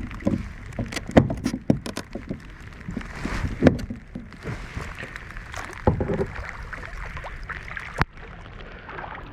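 A kayak moving slowly on the water: water splashing and sloshing around the hull under a steady hiss of rain, with scattered sharp knocks and clicks.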